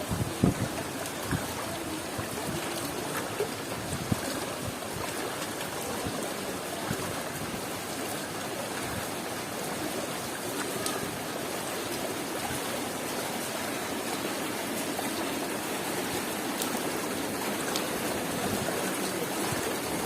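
Heavy rain falling and running water, a steady dense hiss, with a few sharp taps in the first few seconds.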